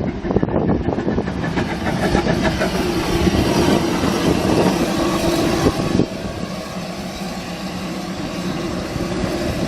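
An engine running, with a rapid rhythmic beat that changes about six seconds in to a smoother, slightly quieter running sound.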